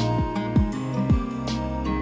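Background music: soft, sustained instrumental chords over a steady kick-drum beat, about two beats a second.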